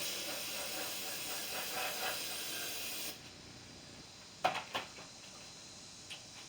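Aerosol can of starting fluid sprayed in one continuous hiss for about three seconds, priming a lawn tractor engine for a start attempt. Two short knocks follow about a second later.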